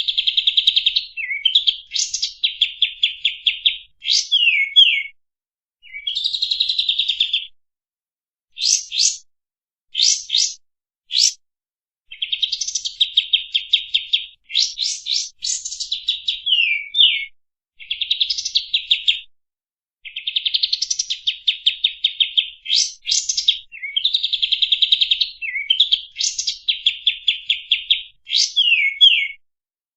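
Kapas tembak, a bulbul, singing a rapid chattering song. Phrases of fast-repeated notes last one to a few seconds, broken by short pauses and mixed with quick downslurred notes.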